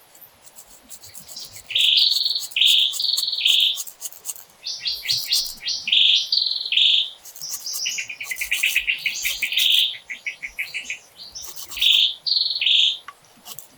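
Birds calling: a repeated two-part call, a high note dropping to a lower one, given again and again, with fast chattering trills about five and eight to ten seconds in.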